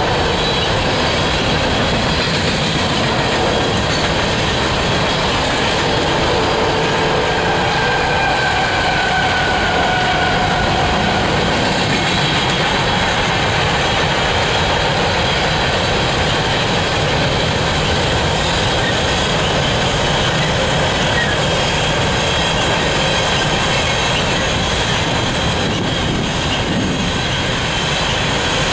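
Empty coal hopper cars of a freight train rolling steadily past: a continuous loud rumble and clatter of steel wheels on rail, with faint, steady high tones of wheel squeal running through it.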